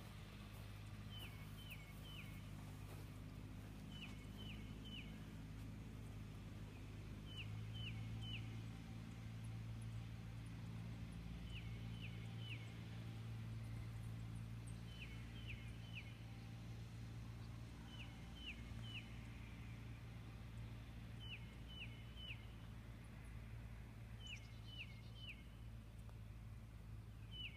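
A songbird sings a short phrase of about three quick, high, down-slurred notes, repeated about every three to four seconds, over a steady low hum.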